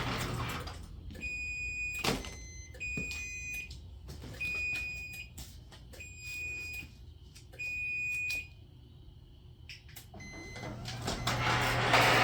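Electronic beeper sounding about five long, steady, high beeps roughly a second and a half apart, with a few sharp clicks between them; a low hum and mechanical noise build up near the end.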